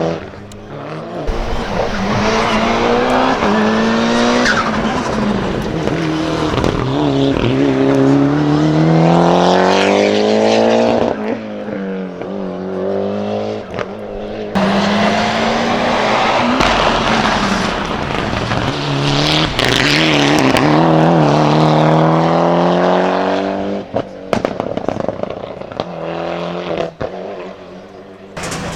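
Hill-climb race car engines accelerating hard, the revs climbing through the gears again and again. Two separate runs follow one another, joined by an abrupt cut about halfway.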